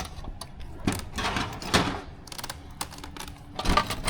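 Irregular clicks and taps of small plastic model-plane parts and a screwdriver being handled during assembly.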